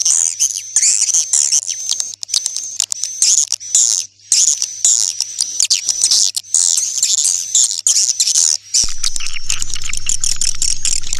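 Swiftlets chirping and twittering in a dense, rapid stream of high calls, as on a recorded swiftlet-house lure track. A steady low hum comes in with a click about three-quarters of the way through.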